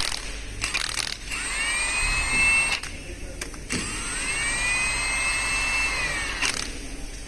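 A power tool's motor whining up to speed twice and stopping, first for about a second and a half and then for nearly three seconds, after a few sharp knocks of metal parts being handled.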